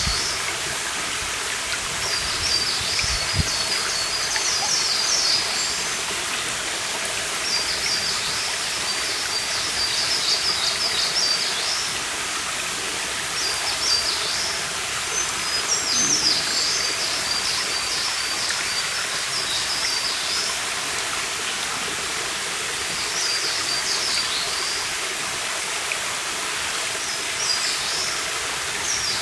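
A stream running steadily, with a small songbird singing high, rapid phrases in bouts every few seconds.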